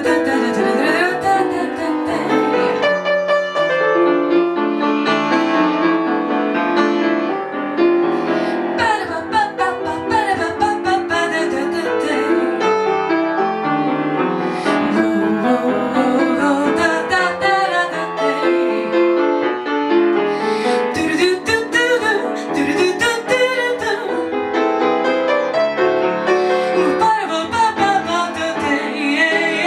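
Instrumental break in a ballad, led by piano, with no sung words.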